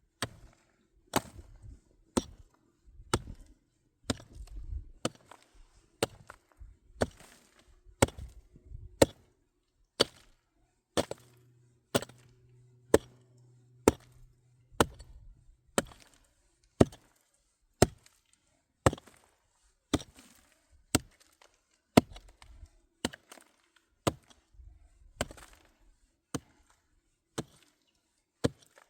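Chopping: sharp, evenly paced blows, about one a second.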